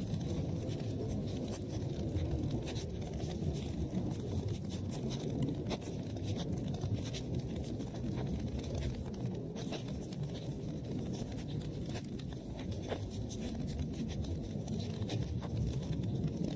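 Wood fire burning in a fireplace: a steady low rumble of flames with many irregular crackles and pops.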